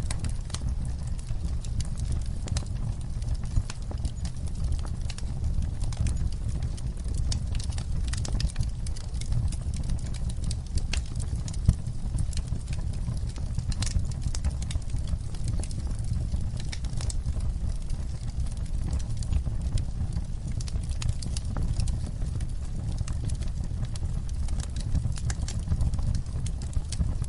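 Wood fire burning: a steady low rumble of flames with frequent, irregular sharp crackles and pops from the burning wood, one pop standing out a little before halfway.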